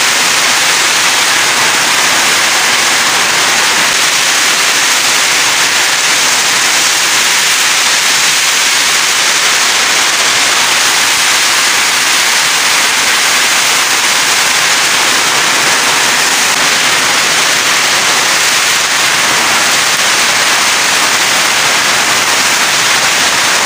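Heavy rain pouring down steadily, a loud, even hiss with no let-up.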